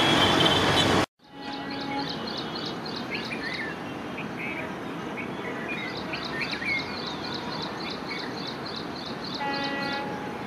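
A loud rushing noise cuts off abruptly about a second in. A bird then chirps in quick repeated calls over a low outdoor background as a diesel locomotive approaches in the distance. Near the end a steady-pitched horn, the locomotive's, starts sounding.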